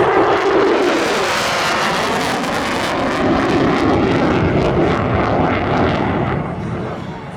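F-16 fighter jet making a low pass, its jet engine a loud rushing roar that dies away near the end.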